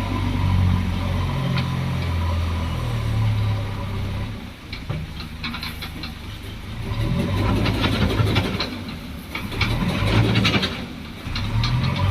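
Diesel engines of JCB 3DX backhoe loaders running under changing load, the engine note stepping up and down. Repeated knocks and clatter come through, mostly in the second half.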